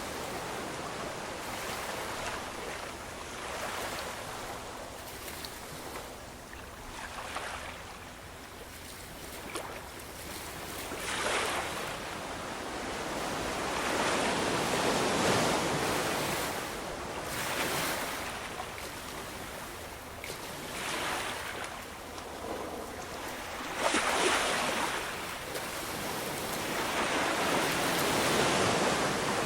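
Ocean waves breaking and washing on a shore, with the surf swelling and easing every few seconds; a sharper break about 24 seconds in. Wind on the microphone can be heard under it.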